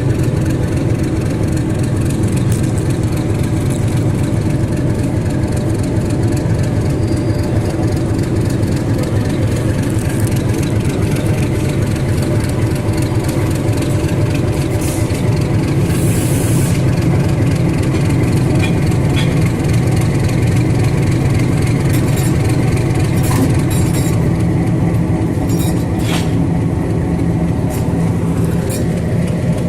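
Diesel locomotive engine running steadily at a low, even pitch. A brief hiss comes about halfway through, and a few short sharp knocks come later on.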